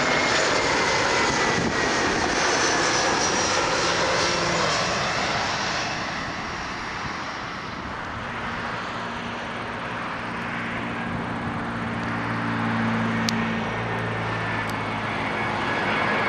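Air Canada Airbus A321 jet airliner passing close by, its engine noise loud at first with whining tones that fall in pitch as it goes past. The noise eases off around the middle, then a steady low engine hum builds again in the second half.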